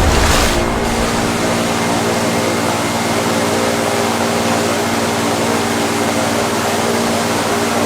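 A steady mechanical hum with several fixed tones, over a continuous rushing noise; a louder rush swells and fades in the first second.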